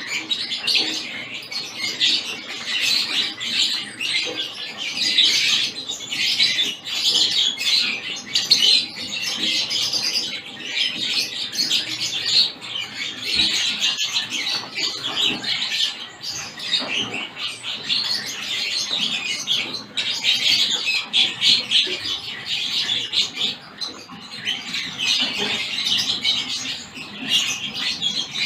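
A mixed flock of small aviary finches chirping and calling together in a dense, continuous chatter of short high notes.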